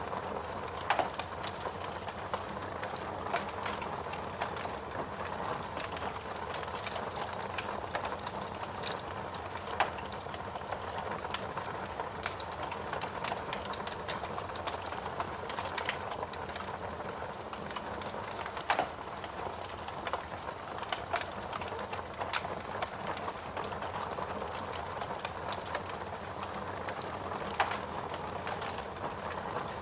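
Wood log fire in a fireplace crackling steadily, with many small snaps and four louder pops spread evenly through, about nine seconds apart.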